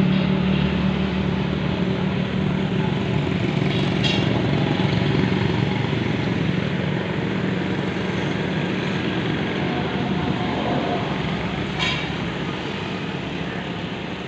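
Tractor engine running with a rough rumble, slowly getting quieter. Two short clicks sound over it, about four seconds in and again near the end.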